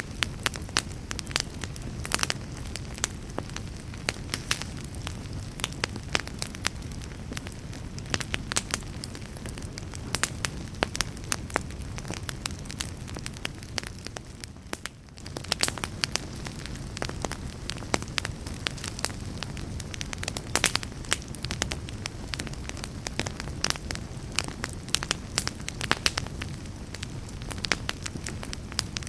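Wood fire burning, with frequent sharp crackles and pops over a steady low rush of flame. It briefly drops quieter about halfway through.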